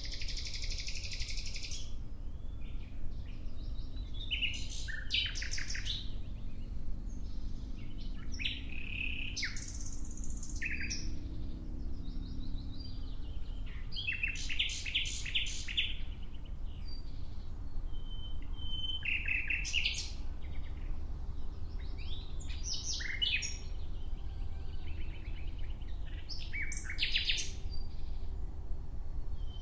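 Nightingale singing in separate phrases every few seconds, each a fast run of repeated notes, trills or short whistles, with pauses between them. A steady low rumble runs underneath.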